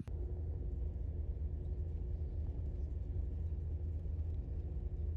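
Steady low rumble of a vehicle on the move, with a faint steady hum above it.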